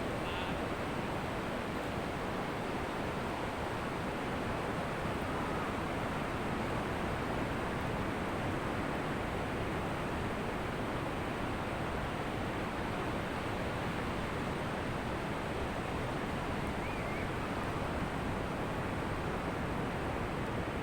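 Ocean surf washing on a beach, heard as a steady, even rushing with no distinct breaking waves standing out.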